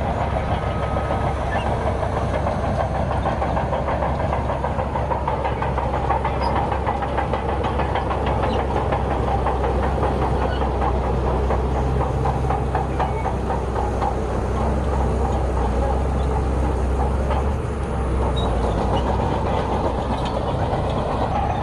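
Bulldozer's diesel engine running steadily under load, with the steel crawler tracks clanking and rattling in a dense, continuous clatter.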